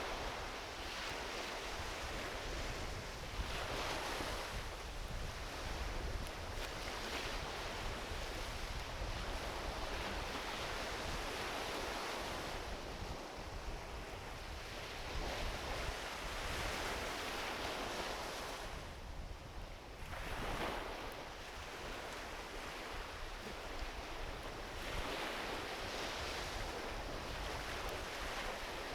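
Small ocean waves washing onto a beach, swelling and falling back every few seconds, with a low wind rumble on the microphone.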